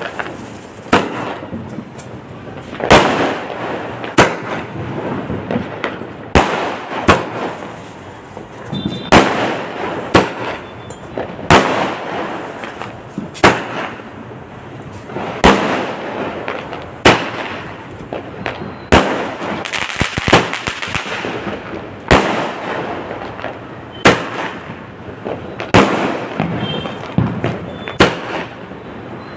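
Diwali fireworks going off: sharp bangs every second or two over a steady crackling.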